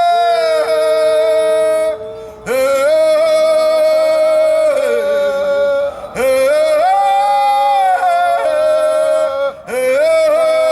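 Wordless vocal toning for a sound-healing attunement: long held notes rich in overtones, gliding between pitches, with a short break for breath about every three to four seconds.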